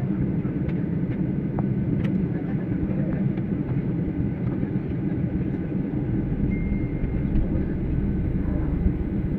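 Airliner cabin noise: a steady low rumble, with a few faint clicks.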